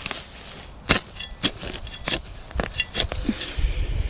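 Garden trowel digging in a raised bed's soil, its blade giving about five sharp clinks with a brief ring, roughly half a second apart.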